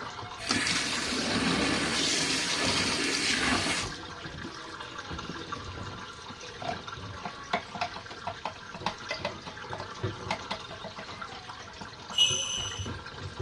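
Cold water sprayed into a small RV washing machine's tub, hissing loudly for about three seconds, then dripping and trickling in the tub. Near the end comes a short high-pitched tone.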